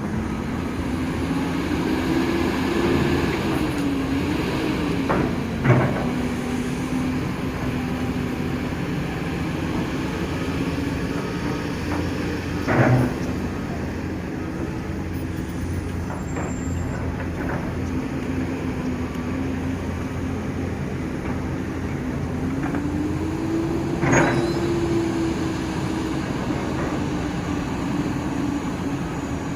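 Excavator's diesel engine running steadily, its pitch rising and falling twice as it works under load, with three sharp knocks spread through.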